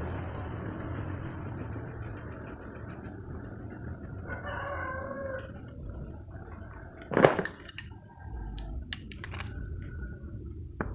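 Background noise with a drawn-out pitched call, like an animal's, about four seconds in, lasting just over a second. A short, sharp loud sound follows about seven seconds in, then a few light clicks.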